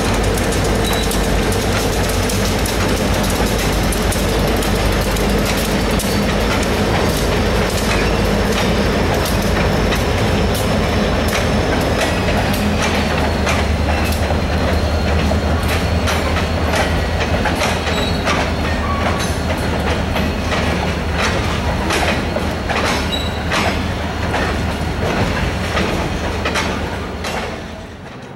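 Freight train crossing a steel deck bridge: the two EMD GP35 diesel locomotives move off, then covered hopper cars roll past with a steady rumble and rapid clicking of wheels over the rail joints, with a faint thin wheel squeal. The sound fades down near the end.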